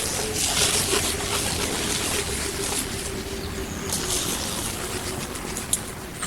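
Dry fallen leaves rustling and crackling as raccoons move and forage through them, with a steady low tone underneath.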